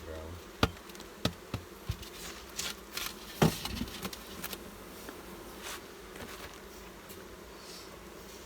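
Honeybees buzzing steadily around an open hive, with several sharp knocks and taps in the first few seconds, the loudest about three and a half seconds in.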